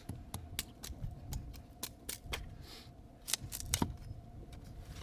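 A run of sharp, irregular clicks and knocks, about a dozen of them, with two louder knocks a little past the middle.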